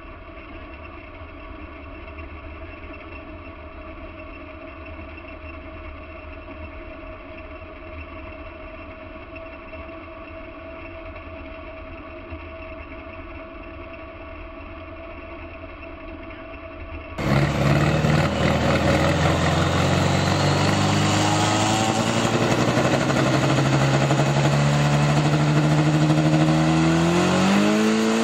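Competition pulling vehicle engines. For the first seventeen seconds an engine runs at a steady pitch, fainter and somewhat muffled. Then the sound cuts abruptly to a much louder engine whose pitch climbs steadily under load for about ten seconds, dipping and wavering near the end.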